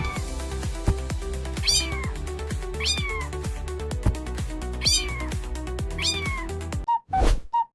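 Upbeat background music with a steady beat and a cat meowing four times over it, each meow a falling call. Near the end the music cuts out into a few short, separate blips.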